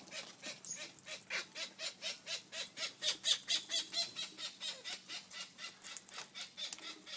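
Australian king parrot calling in a rapid, even series of short, harsh squawks, about four or five a second, loudest about three seconds in.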